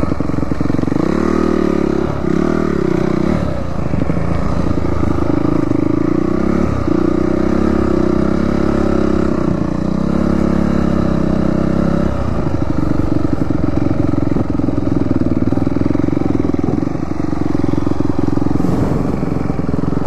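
Dirt bike engine running hard while riding a dirt trail, its pitch rising and falling with the throttle in the first few seconds, then holding steadier in the second half.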